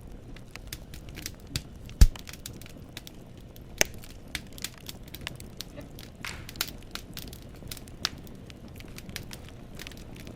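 Wood burning in a fireplace, crackling: a steady low burning noise with scattered sharp pops of the logs. The loudest pop comes about two seconds in and another strong one just before four seconds, with a short hiss a little after six seconds.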